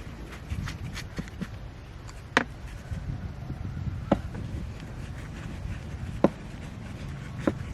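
Four sharp knocks, a second or two apart, each with a short ring, over a low steady rumble.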